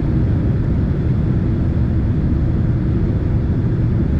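Steady low rumble of a Boeing 767's jet engines and rushing air heard inside the passenger cabin in flight.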